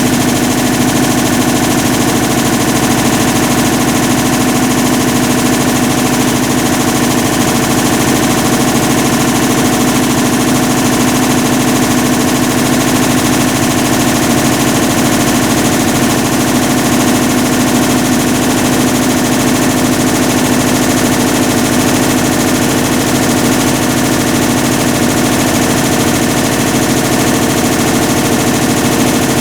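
Hitachi BeatWash BW-D8KV washing machine running with a loud, continuous rapid rattling grind, the sign of its failed clutch.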